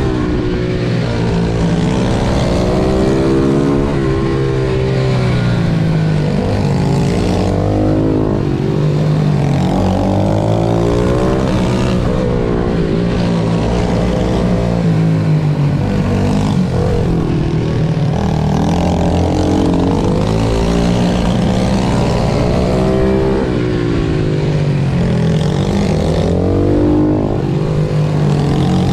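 Racing pit bike engines revving hard, the pitch repeatedly climbing and dropping every second or two, with more than one engine sometimes heard at once.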